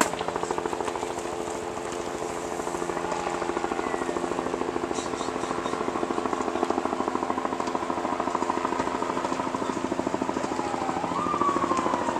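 A machine running steadily with a fast, even pulsing beat over a few steady low hums, with faint falling whistle-like tones sliding above it now and then.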